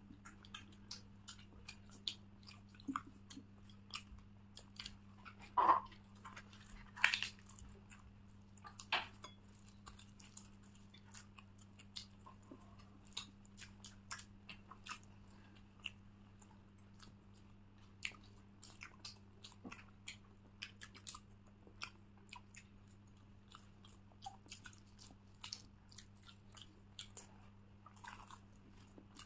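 Close-up chewing and mouth sounds of people eating luchi and egg curry: many soft smacks and clicks, a few louder ones about six and seven seconds in, over a faint steady low hum.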